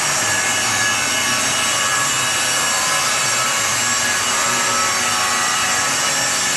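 Shop power tool running steadily: a continuous high whine over a rasping noise, with no pause.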